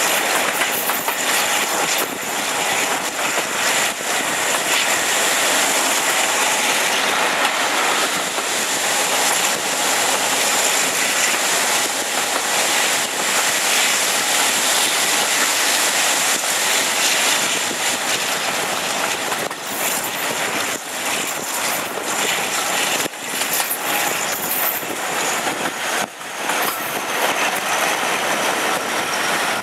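Passenger train running at speed, heard from an open coach window: a steady rush of wind and wheel-on-rail noise, with a few sharp knocks from the wheels over the track.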